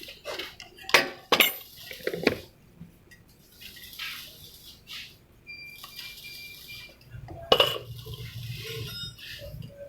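Metal tools and parts clinking and clanking in irregular knocks, with sharp clanks about a second in and again about seven and a half seconds in.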